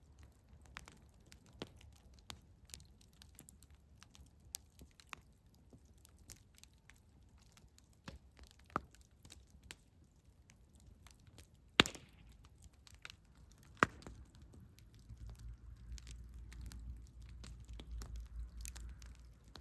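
Campfire crackling, with scattered small pops and two sharp, loud pops about two seconds apart past the middle. A low rumble comes up beneath it about three quarters of the way through.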